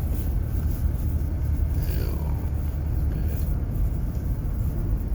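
Steady low rumble of a vehicle driving, heard from inside the cab.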